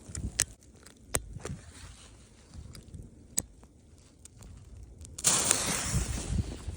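A few sharp clicks, then about five seconds in a sudden bright hiss for about a second and a half: a lit Blockbuster firecracker fuse fizzing.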